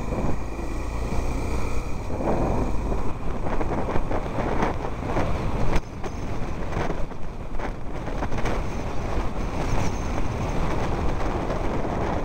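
A car driving over a rough, muddy, unpaved road: a steady rumble with many short knocks and jolts throughout, and wind on the microphone.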